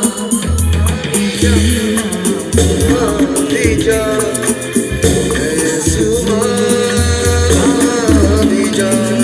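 Loud Bollywood-style music with singing and a heavy bass beat, played through a competition car audio system.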